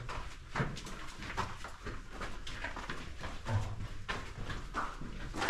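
Footsteps through wet mud in a mine tunnel: a run of irregular soft steps and knocks.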